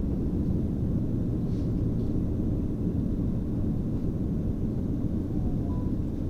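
Train in motion: a steady low rumble of wheels and running gear on the rails.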